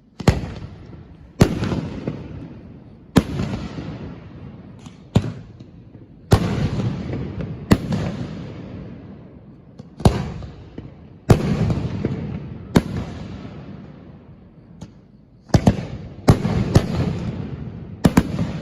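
Large aerial firework shells bursting at close range: about a dozen sharp booms at uneven intervals, some in quick pairs, each trailing off in a long rolling rumble.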